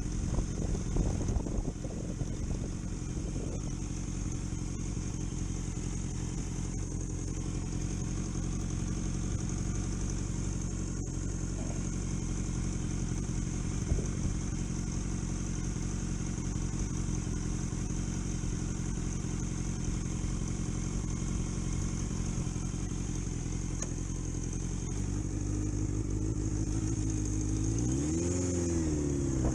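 A vehicle's engine runs under way at a steady speed, with some clatter at first. Near the end the engine note rises, then swings up and down as the revs change.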